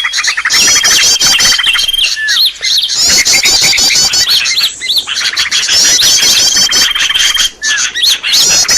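Bird-lure recording: loud, dense birdsong of rapid repeated chirps and trills, with a level whistled note held for a second or more several times over, and brief breaks about two and a half, four and a half and seven and a half seconds in.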